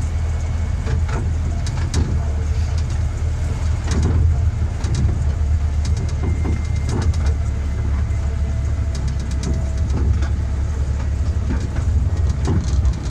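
Miniature railway train running along the track, heard from the locomotive: a steady low drone with irregular clicks from the wheels on the rails.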